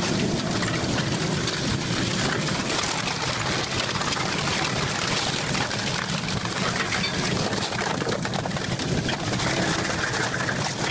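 Industrial shredder grinding material: a steady, dense crackle of crunching and snapping.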